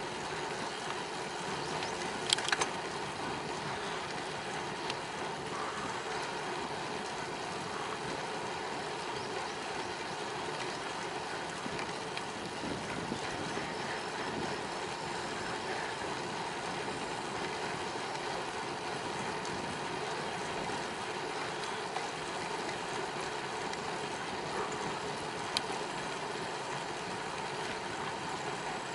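Steady tyre and wind noise from a bicycle rolling along a paved cycle path, with a few sharp clicks or knocks about two seconds in and one more near the end.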